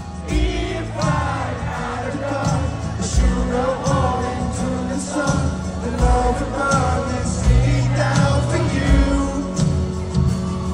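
Live rock band playing a song, with male singing over bass guitar and drums.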